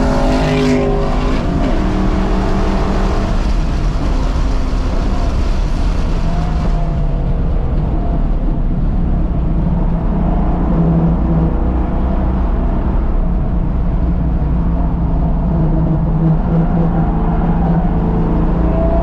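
Ford Mustang 5.0 V8 engine, heard from inside the cabin under track driving, loud and steady. The engine pitch falls about a second and a half in, then holds fairly steady through the corner, with road and wind noise underneath.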